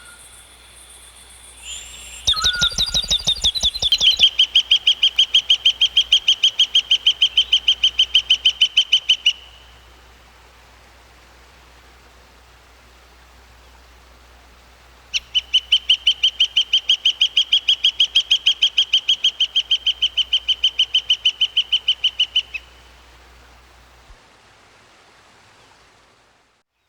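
A bird calling in two long, even series of rapidly repeated high notes, about seven a second. The first series lasts about five seconds and the second, near the middle, about seven.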